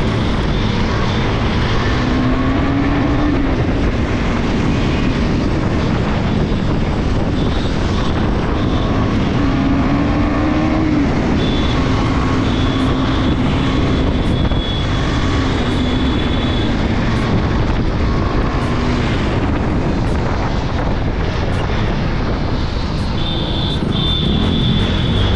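KTM Duke 390 single-cylinder engine running under way, its pitch rising and falling as the bike speeds up and slows down, under heavy wind noise on the camera microphone.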